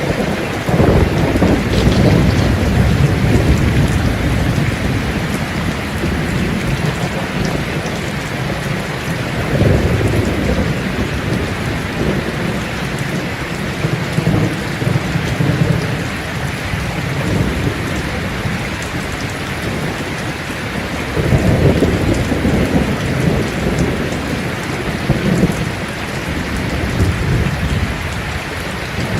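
Steady heavy rain with rolling thunder rumbling in low swells, strongest near the start, about ten seconds in, and again a little past twenty seconds.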